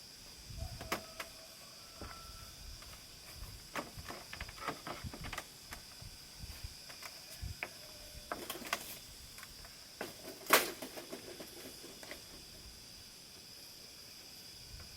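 Scattered short knocks and clicks, the loudest about ten and a half seconds in, over a steady high insect drone.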